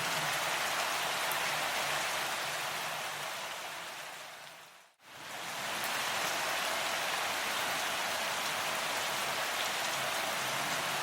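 Steady rain falling on a surface, an even hiss of drops. It fades out to a moment of silence about five seconds in, then fades straight back up to the same steady rain.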